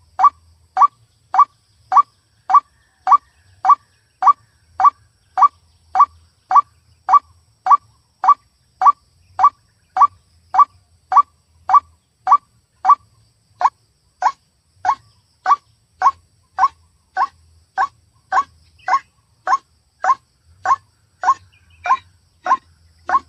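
White-breasted waterhen (ruak-ruak) repeating one short call over and over at an even pace of about two a second. This is a recorded mp3 lure call, played to draw waterhens into a trap.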